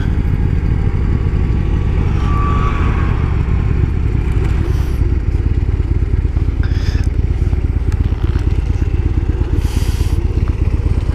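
Motorcycle riding at a steady pace: the engine runs under a loud, constant rumble of wind buffeting the microphone.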